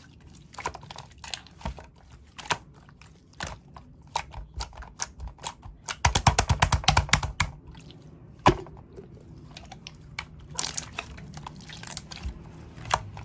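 Slime being pressed and stretched by hand, making sticky wet clicks and pops. About halfway through comes a quick run of clicks, followed by a single louder pop.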